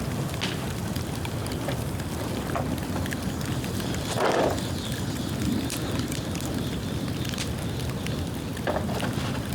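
Bonfire of dry bamboo burning: a steady rush of flame with scattered sharp crackles and snaps, and one louder burst about four seconds in.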